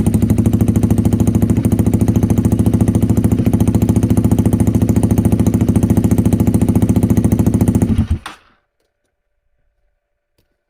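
Honda Rebel 250's single-cylinder engine idling through its exhaust, a steady, evenly pulsing beat. It cuts off suddenly about eight seconds in.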